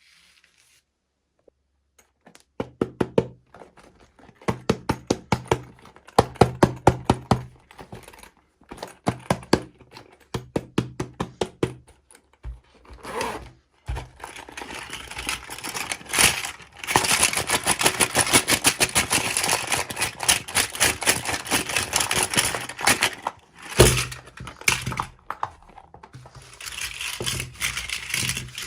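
Hands handling plastic toy packaging and small plastic toy pieces: quick bursts of clicking and tapping for the first half, then several seconds of dense crinkling and crackling of plastic, with a few sharp knocks.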